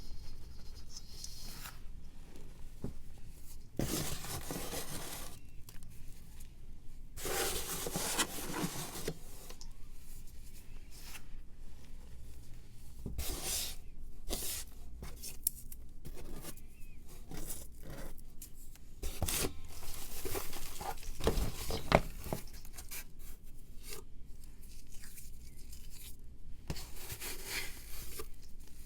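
Reformed powder blocks being crumbled and shaved by hand: bursts of crunching and scraping a second or two long, with small crackles between them and one sharp crack a little past the middle.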